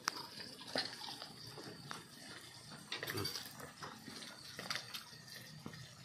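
A person chewing and tearing roasted meat with the mouth: irregular wet smacks and clicks.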